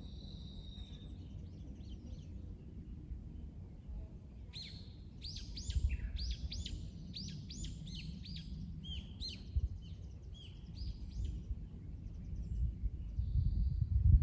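A songbird singing a quick series of clear, arching whistled notes, about two a second, starting about four seconds in and stopping a couple of seconds before the end, over a steady low rumble.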